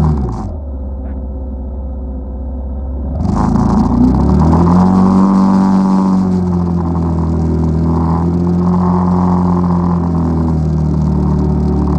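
ATV engine under way: the throttle drops off about half a second in and the engine runs lower and quieter for about three seconds, then the throttle opens again and the pitch climbs back up and holds steady, with small rises and dips.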